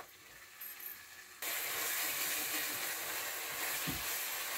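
A thick onion, cashew, garlic and ginger masala paste sizzling steadily in a frying pan as it is stirred with a wooden spatula; the sizzle comes in abruptly about a second and a half in, with a soft low knock near the end.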